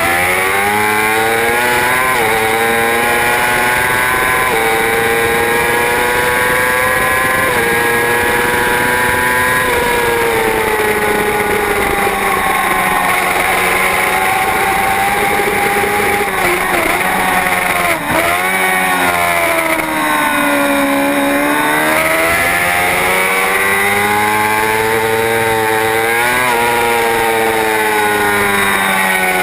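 Superbike racing motorcycle engine at high revs. Its pitch climbs through several quick upshifts, falls steeply a little past the middle as the bike brakes and downshifts, then rises again under hard acceleration.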